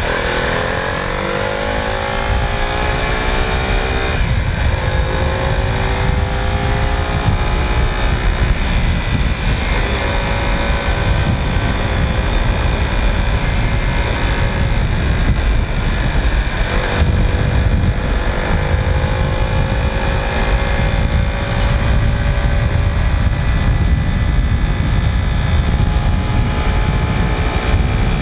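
Motorcycle engine pulling through the gears while riding, its pitch climbing and then dropping back at each upshift, about four, ten and seventeen seconds in, with wind rushing over the microphone.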